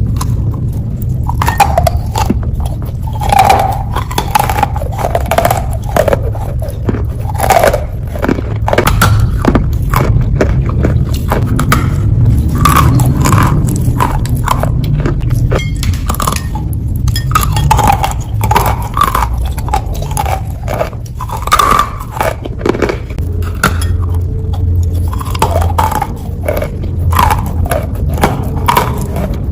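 A person biting and chewing wet clay close to the microphone: a dense, irregular run of short crunching and squishing mouth sounds over a low steady rumble.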